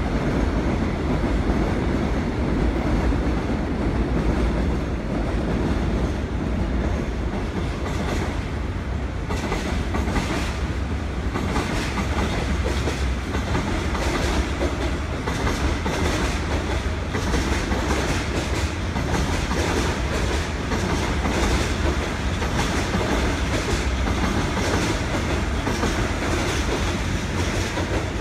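Seoul Metro Line 1 electric train, set 104, pulling out of a station. It runs with a steady rumble and, from about nine seconds in, a regular clickety-clack of wheels over rail joints.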